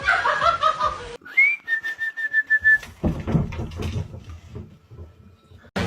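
A whistle: a quick upward slide into one steady high note held for about a second, followed by low rumbling and knocks.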